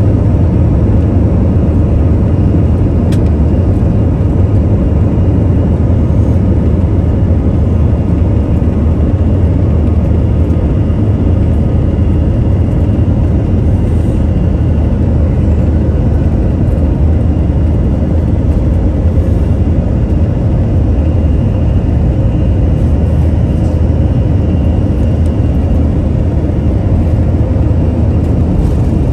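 Airbus A321-200 jet engines running, a loud, steady rumble heard from inside the passenger cabin.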